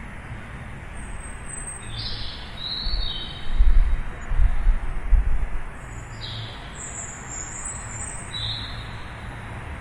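Outdoor ambience with several birds chirping in short high bursts, some sliding in pitch. In the middle a low rumble swells for about two seconds and is the loudest sound.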